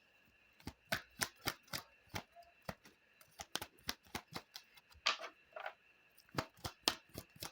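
Lenormand cards being drawn from the deck and laid down: an irregular run of sharp clicks and snaps, two or three a second.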